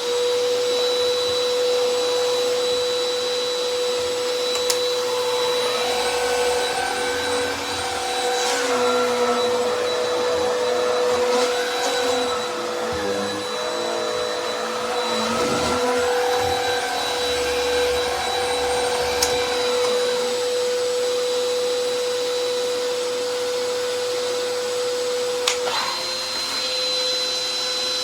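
Hoover bagless upright vacuum cleaner running steadily with a high whine. Through the middle a changing lower hum and rumble comes and goes, with a few sharp clicks; at the last, near the end, the whine shifts slightly.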